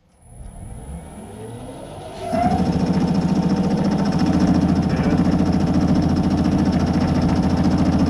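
Myford lathe switched on and spinning up, its pitch rising for about two seconds, then running steadily at higher belt speed, louder, with a fast pulsing drone.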